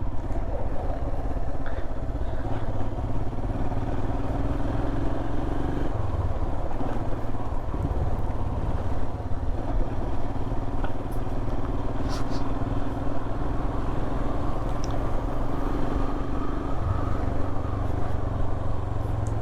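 Royal Enfield Himalayan's single-cylinder engine running steadily while riding, with wind and road noise on the camera microphone.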